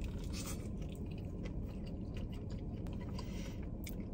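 A person chewing a mouthful of loaded French fries. Faint, irregular mouth clicks and soft crunches sit over a steady low hum.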